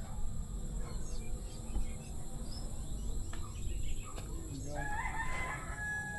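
A rooster crows once, about three-quarters of the way through, over a steady low rumble.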